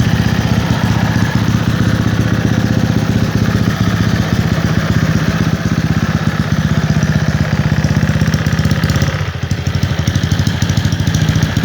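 Motorcycle engine idling through an aftermarket Mahachai exhaust pipe, a steady pulsing exhaust note that dips briefly about nine seconds in.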